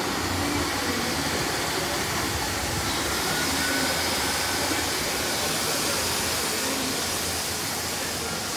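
Train running, a steady, continuous rushing noise with a faint high whine.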